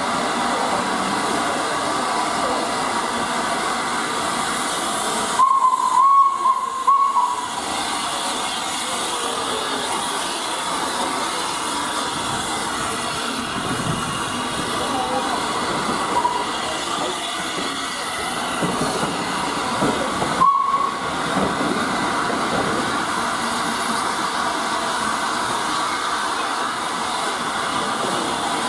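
Steam locomotive Flying Scotsman, an LNER A3 Pacific, with a steady hiss of steam, broken by short, loud whistle sounds about six seconds in and again about twenty seconds in.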